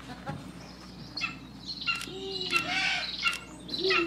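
Birds calling: a series of short chirping calls, several in a row about half a second to a second apart.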